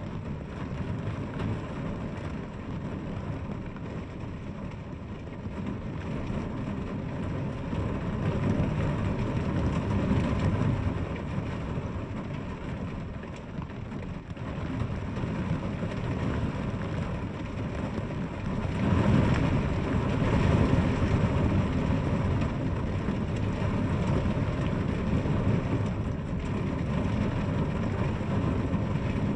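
Steady heavy rainfall: a dense, even rushing hiss weighted toward the low end. It swells louder about a third of the way in and again about two-thirds in.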